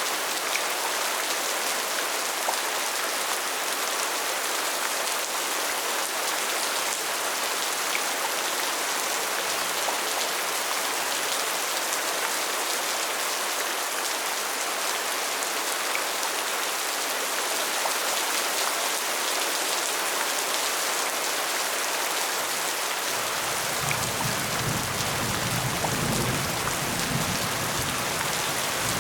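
Steady rain falling, an even dense hiss of many drops. A deeper low sound joins under it near the end.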